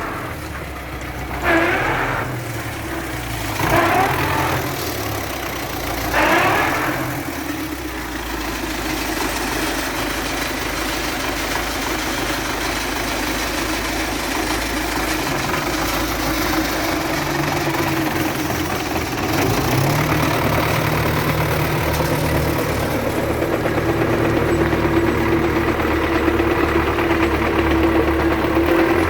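MTZ diesel tractor running, with four short loud surges in the first seven seconds, then running steadily with a change in its low rumble about twenty seconds in and a steady howl-like tone near the end. The howling and knocking come from a damaged gearbox, which the owner traces to a missing tooth on fourth gear and a nut that worked loose.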